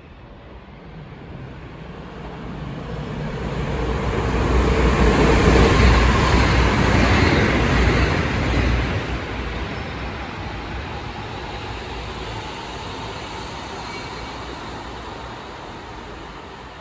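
Passenger train passing at speed: a rushing of wheels and air that swells over about five seconds, peaks, drops off sharply about nine seconds in, then fades slowly.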